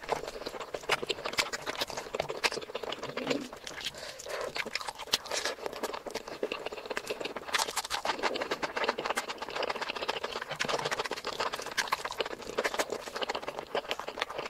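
Close-miked eating sounds: a dense, steady run of wet clicks and smacks from chewing mutton curry and rice, along with the sound of fingers mixing the rice and curry on a metal tray.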